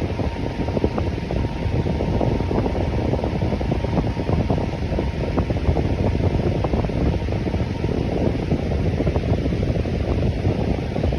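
Electric fan running steadily, an even low whooshing of moving air with a faint steady hum.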